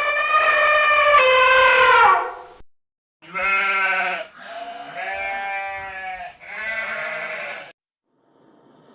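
Animal bleating: one long, high call that drops in pitch at its end, then three lower, quavering bleats in a row.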